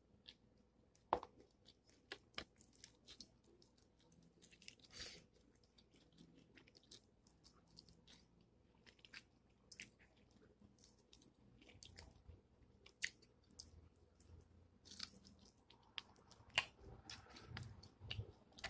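Faint, close-up chewing and biting of fried chicken, with scattered sharp clicks and smacks as the meat is torn and eaten by hand.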